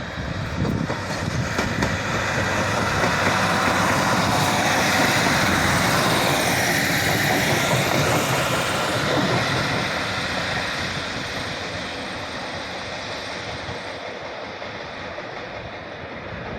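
Diesel multiple unit train moving through the station: under-floor diesel engine and wheels on the rails, growing louder to a peak about halfway and then slowly fading.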